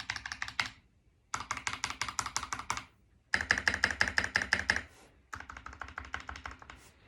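Mechanical keyboard with Glorious Panda tactile switches on Durock 63.5 g springs and lubed plate-mount stabilizers, typed on in fast runs of keystrokes. There are four bursts of rapid clicks, each about a second and a half long, with short pauses between them; the last burst is a little quieter.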